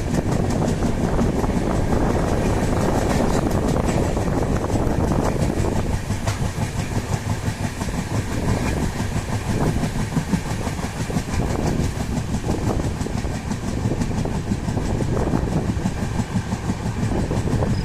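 A train running on the track, its wheels clattering steadily over the rails with many fine clicks.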